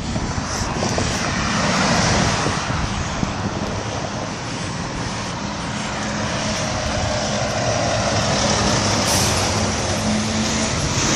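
Road traffic noise with a truck or other motor vehicle running close by, over a steady rushing noise. A low engine hum comes in about halfway through and fades near the end.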